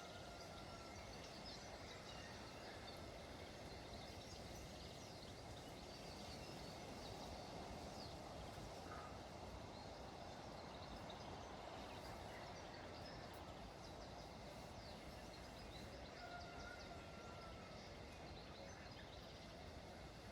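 Faint outdoor ambience: a steady hiss with scattered small ticks of light rain. A faint held tone sounds twice, near the start and about two-thirds of the way through.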